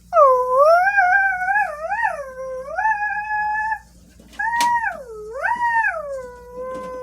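Dog howling: two long, wavering calls that glide up and down in pitch, with a short break about four seconds in.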